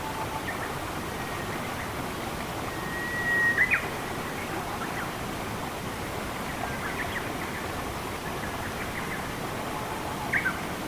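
Steady rushing of running water with birds calling over it: a held whistle about three seconds in that ends in sharp chirps, scattered chirps in the middle, and two quick chirps near the end.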